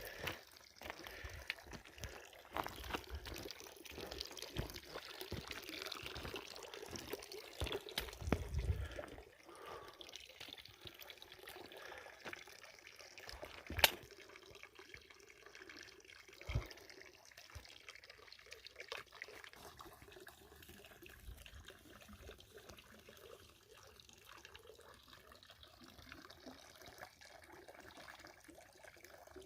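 Water trickling and splashing, with scattered clicks and one sharp knock about 14 seconds in.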